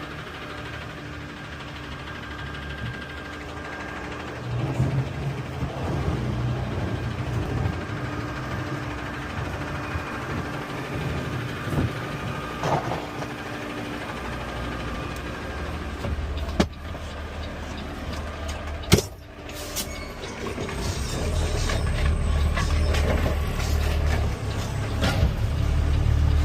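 Peterbilt 520 CNG garbage truck's engine running steadily, with two sharp knocks a couple of seconds apart past the middle. The engine grows louder near the end.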